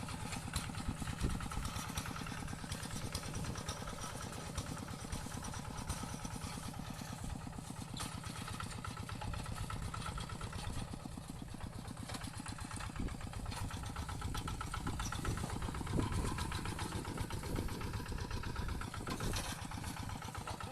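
Tractor engine running steadily with a fast, even firing beat, growing a little louder about three-quarters of the way through.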